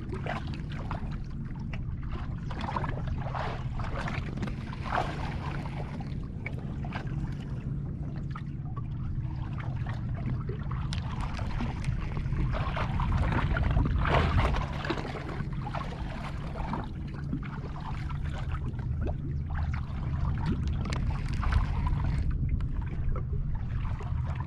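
Bass boat on the water: water lapping and splashing against the hull in irregular strokes over a steady low hum.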